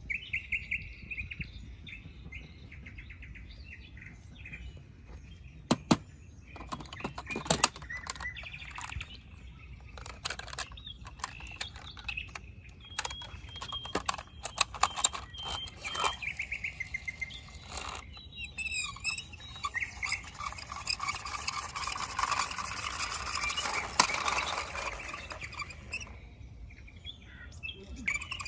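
Birds chirping, mixed with scattered sharp clicks and knocks; the chirping grows busier and louder in the second half.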